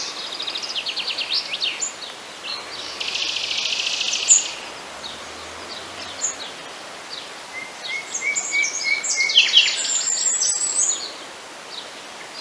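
Several songbirds singing at once: quick repeated chirps and trills that overlap, with a dense buzzy trill about three seconds in and another run of fast notes past the middle.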